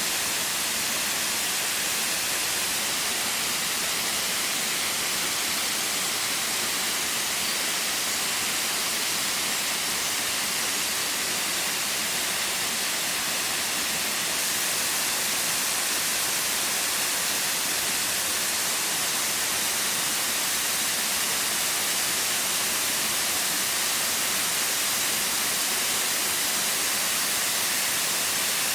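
Tatsuzawa Fudo Falls: the steady rush of falling water, a little louder from about halfway through.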